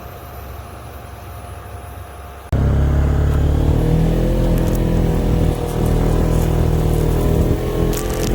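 A vehicle engine idling quietly, then, after an abrupt cut about two and a half seconds in, a much louder engine running under load, its pitch rising a little.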